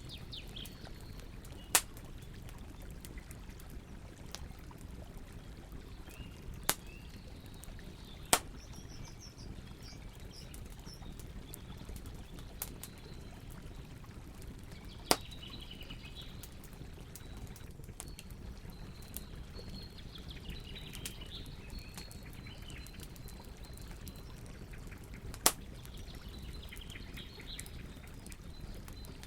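Wood campfire burning with a steady low rush and occasional sharp crackling pops, about five loud ones spread through, while small birds chirp now and then.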